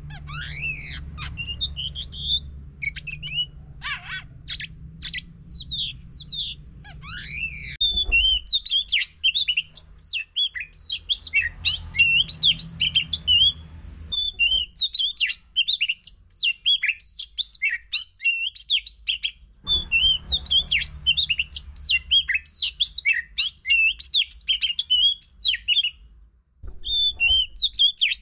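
Oriental magpie-robin (kacer) singing. The first few seconds hold slower sweeping whistles; after about eight seconds it breaks into a fast, dense, varied chattering song that runs on with short pauses. This is the full 'gacor' song used to coax a silent kacer into singing. A low hum sits underneath in parts.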